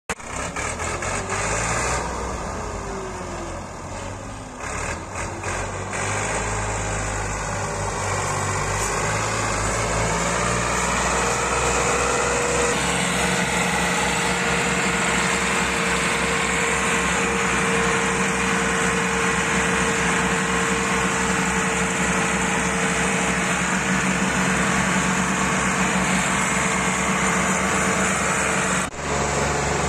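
Tractor engine running steadily while hauling a fully loaded sugar-cane trolley. A steady higher whine joins in about a third of the way through.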